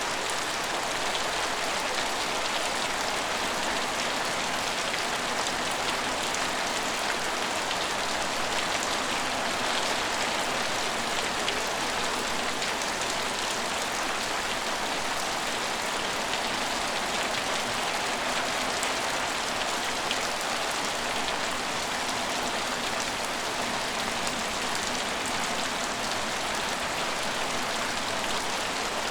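Steady rain falling, an even hiss of many drops that holds constant with no let-up.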